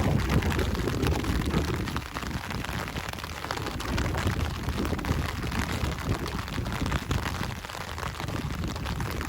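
Steady rain falling, with a strong low rumble underneath that is heaviest about the first second.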